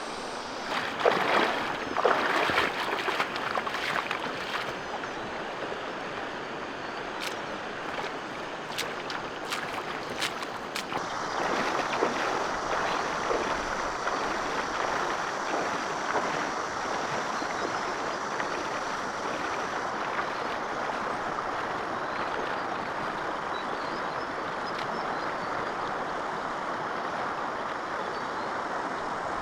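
Water splashing and sloshing for a few seconds, then a few light knocks, then a steady rush of flowing stream water.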